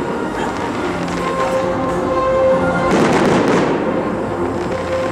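Fireworks crackling as glittering star bursts go off, with a dense patch of crackle about three seconds in, over steady music.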